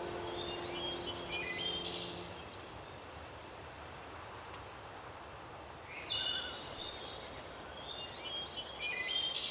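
Small songbirds chirping in short, quick rising calls, in two bouts: one in the first couple of seconds, then another from about six seconds in. Between the bouts there is only a soft, even hiss.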